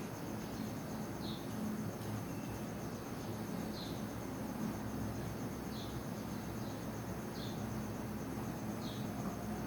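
Crickets trilling steadily in a fine, high, even pulse, with short high chirps every second or two over a low background hum.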